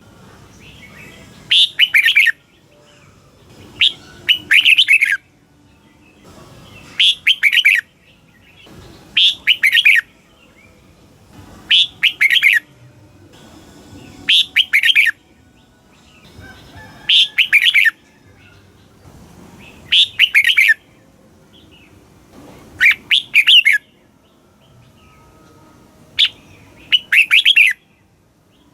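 Red-whiskered bulbul singing: short, loud, warbling phrases repeated about every two and a half seconds, with a longer pause near the end.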